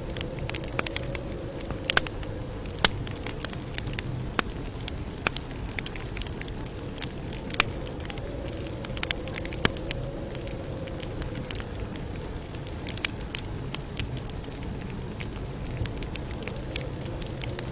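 Campfire crackling, with irregular sharp pops and snaps of burning wood over a low, steady rumble.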